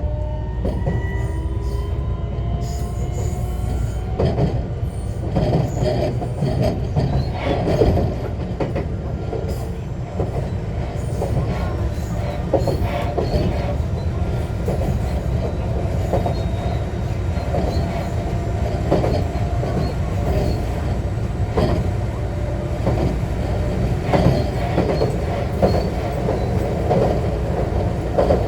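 JR West 125 series electric railcar running, heard from inside the car: a steady rumble with repeated rail-joint clacks, and a whine from its Toyo IGBT inverter and traction motors that rises in pitch in the first few seconds.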